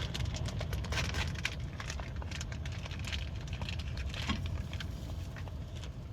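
Wood fire crackling in a fire pit: many sharp, irregular pops over a steady low rumble.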